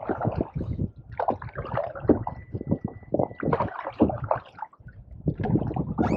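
Canoe paddles dipping and pulling through pond water, with irregular splashing and gurgling around the blades and hull.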